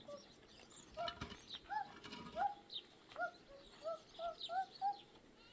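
Birds chirping: a run of short, arched calls, about two a second, with thinner high-pitched chirps above them.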